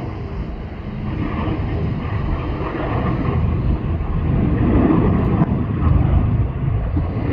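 Jet airliner engines rumbling as the aircraft passes, growing louder to a peak about five seconds in.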